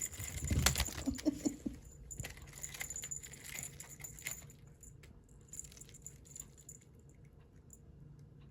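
A cat playing with a toy: light jingling and rustling clicks, busiest at first and thinning out after about five seconds.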